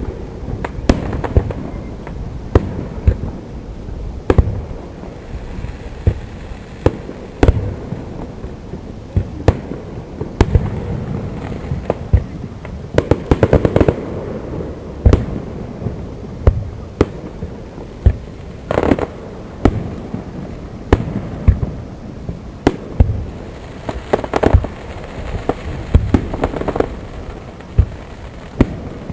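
Fireworks display: aerial shells bursting in sharp booms, irregularly about one a second, with denser volleys of rapid reports around the middle and again near the end.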